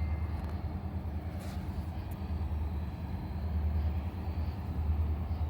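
Diesel locomotive engines of an approaching freight train, a steady low rumble that grows slightly louder in the second half.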